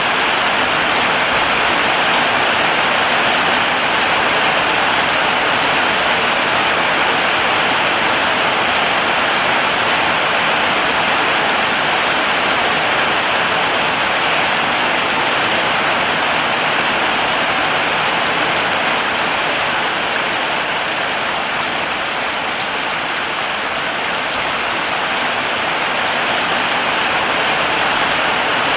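Heavy rain falling steadily, an even dense hiss with no individual drops standing out.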